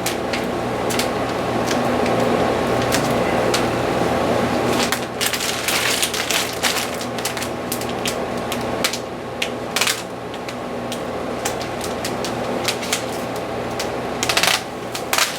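Clear application film being peeled off a paint stencil: irregular crackling and crinkling with many sharp ticks, over a steady background hum.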